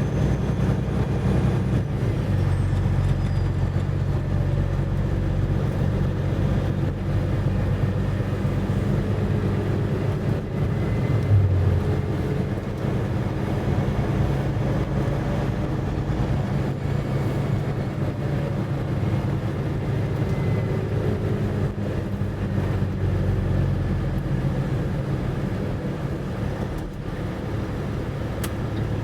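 Semi truck driving down the road: a steady low engine drone with road noise.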